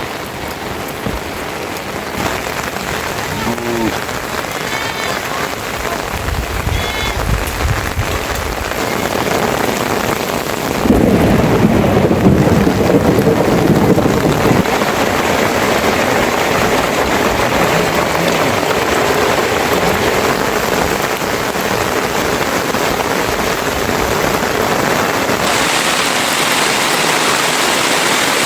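Steady rain falling on surfaces, with a louder low rumble lasting a few seconds about a third of the way in.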